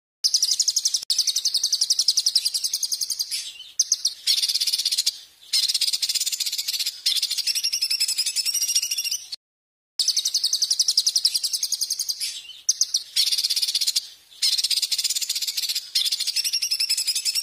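Songbird singing loud, very rapid high trills in phrases of one to three seconds, with a short silent break about halfway through.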